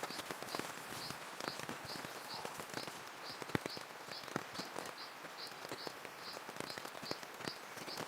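Rain falling, heard as irregular pattering drops. A high chirp repeats evenly, about twice a second, throughout.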